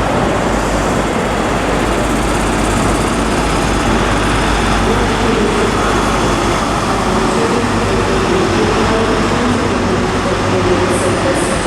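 A Class 43 HST diesel power car running steadily as the train draws into the platform, its engine drone mixed with wheel and rail noise.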